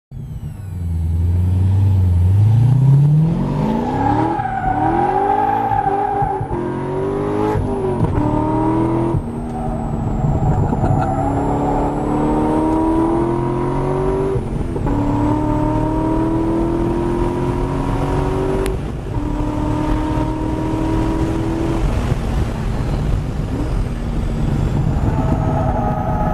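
Corvette Z06's 7.0-litre LS7 V8 under hard acceleration on a race track, heard from inside the car: the engine note climbs through the revs and drops back at each upshift, about five times, then runs steadier near the end.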